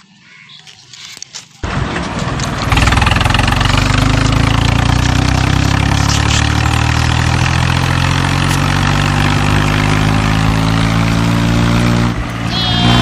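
A recorded tractor engine sound for a toy tractor, either its sound effect or one laid over the video, starts suddenly about a second and a half in. It runs steadily, its pitch slowly rising, with a brief break near the end.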